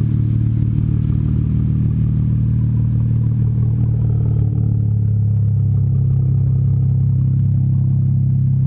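BMW 335i turbocharged inline-six idling steadily through a 3.5-inch stainless steel aftermarket exhaust with high-flow downpipes, a deep, even drone that echoes off a nearby building wall. The idle note rises slightly about halfway through.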